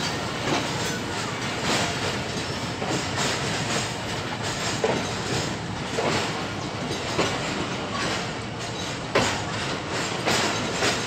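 Passenger train coach pulling out of a station, heard from the open doorway: the wheels clack irregularly over rail joints and points above the steady rumble of the running gear.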